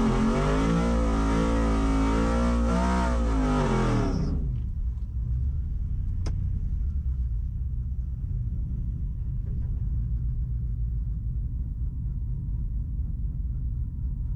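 A drag-racing truck's engine revving hard, its pitch wavering up and down over a hiss. It cuts off abruptly about four seconds in, leaving a low steady rumble with a single sharp click.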